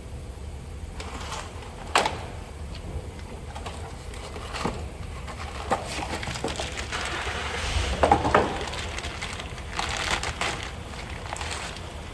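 Scattered knocks and clicks of hand tools and metal brake parts being handled, the sharpest about two seconds in. Longer scraping, rustling stretches come a little past the middle and again near the end.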